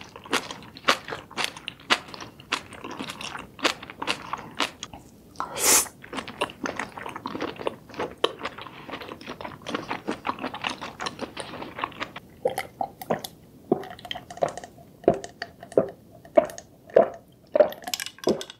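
Close-miked chewing of a mouthful of seafood: a dense run of crunchy, wet mouth clicks and smacks, with one louder wet burst about six seconds in. In the last seconds the clicks come more spaced and fuller as a drink is sipped and swallowed.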